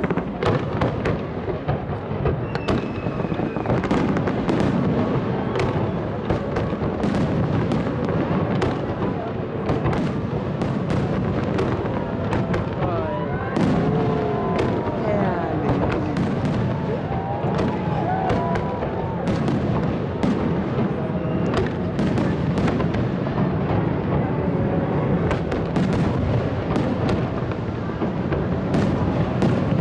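Large fireworks display going off without a pause: continuous low booming crowded with many sharp bangs and crackles.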